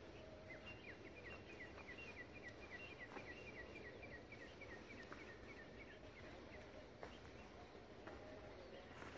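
A bird singing faintly, a long run of short falling notes at about three or four a second that stops about six and a half seconds in, over quiet outdoor background noise.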